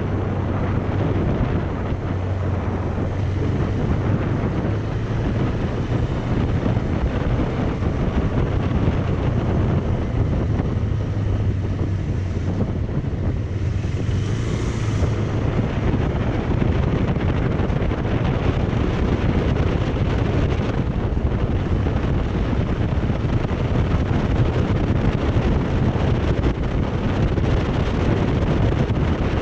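Wind rushing over the microphone during a bike ride, steady throughout, with a low drone underneath and a brief hiss about halfway through.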